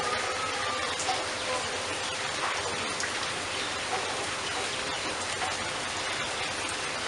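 Steady rain falling, a dense even hiss with scattered individual drop ticks. A faint thin whistle-like tone rises briefly over it about a second in.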